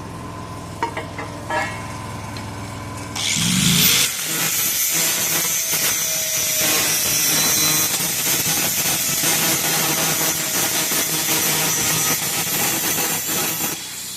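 A power cutting tool spins up about three seconds in, cuts through the Mustang's exhaust pipe with a loud, steady grinding for about ten seconds, then stops and winds down near the end. A couple of knocks come before it starts.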